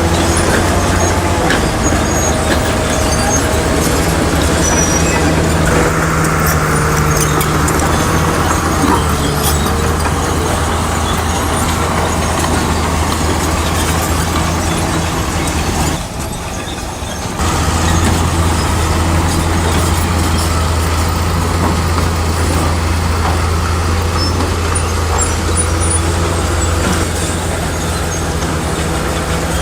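A Shantui bulldozer's diesel engine runs steadily with a low hum. The sound drops briefly about halfway through, then resumes.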